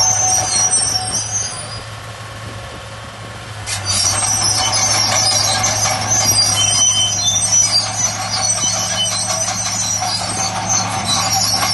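Crawler bulldozer working: its diesel engine runs steadily under high-pitched squealing and clanking from the steel tracks. The sound drops off for a moment, then comes back abruptly about four seconds in.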